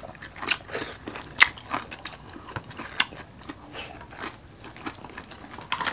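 A person chewing and biting into crispy fried food, with irregular sharp crunches, the loudest about a second and a half in and again about three seconds in.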